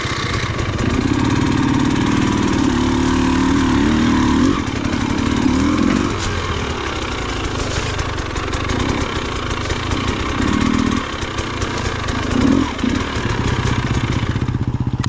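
Off-road motorcycle engine running under load as it is ridden, the revs rising and falling repeatedly, with a long surge in the first few seconds and shorter bursts of throttle later.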